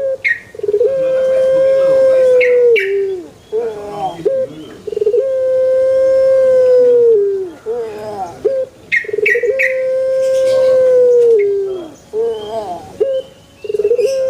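Male Barbary dove (burung puter) cooing: three long drawn-out coos of about two seconds each, holding one pitch and dropping at the end. Each coo is led in by a few short, quick notes.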